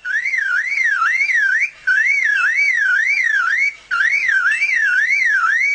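Superb lyrebird mimicking a car alarm: a loud whistled warble sweeping up and down about three times a second, in three phrases of just under two seconds with short breaks between them.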